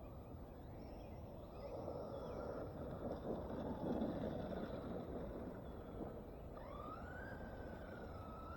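Electric RC monster truck's motor whining, its pitch rising and falling with the throttle, over a rushing noise from the truck driving through high grass that is loudest about three to four seconds in.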